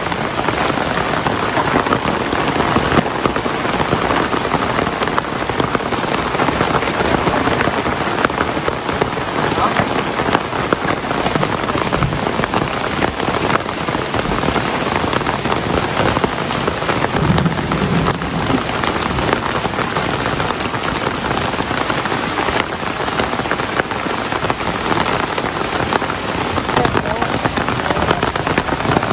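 Heavy rain falling steadily, a dense unbroken hiss of drops striking surfaces.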